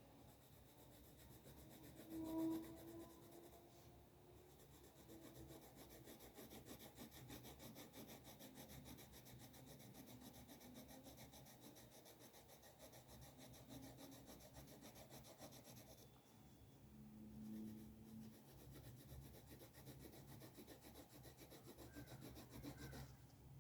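Quiet, steady scratching and rubbing of a drawing tool moving across paper in continuous strokes. A brief pitched squeak-like sound about two seconds in is the loudest moment.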